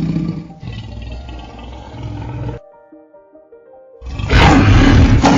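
A large animal roaring and growling, then a short lull with a few music notes, then a second, louder roar starting about four seconds in.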